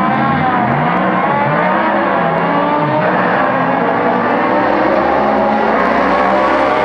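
Several Sports Sedan race car engines running hard as a pack goes by, their overlapping notes rising and falling through throttle and gear changes.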